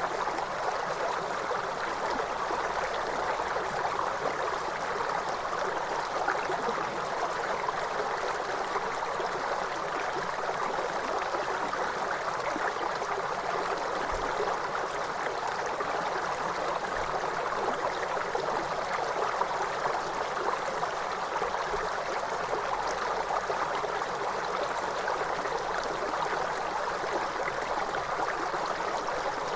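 Waterfall with water rushing and splashing in a steady, unbroken hiss that never rises or falls.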